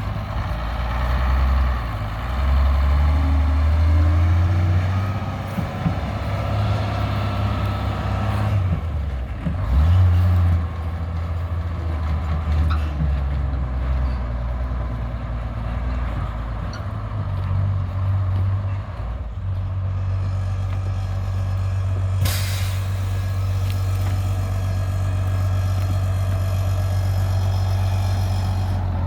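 GMC Brigadier grain truck's engine running, its pitch rising and falling with changing revs in the first half, then settling to a steady drone. A short sharp hiss comes about two-thirds of the way through.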